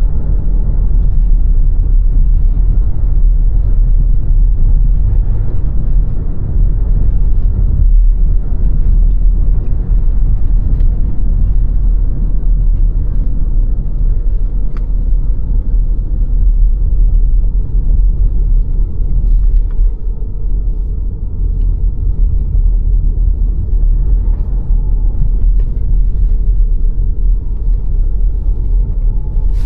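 A car driving steadily along the road: a continuous low rumble of tyres and engine, with a few faint ticks and a slight dip in loudness a little over two-thirds of the way through.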